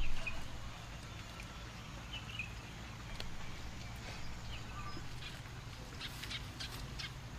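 Short, faint bird chirps scattered over a steady low rumble, with a few sharp clicks near the end.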